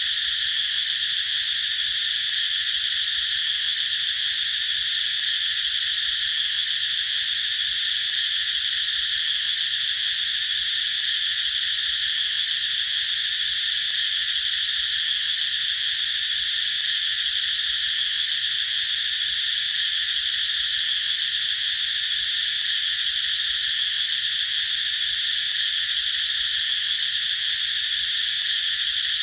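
Chorus of cicadas singing in an unbroken, high-pitched drone that holds steady in level throughout.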